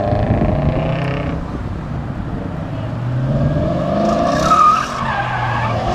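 Car engine with loud exhaust revving and accelerating, its pitch climbing near the middle, with a brief high squeal, likely tires, about four and a half seconds in.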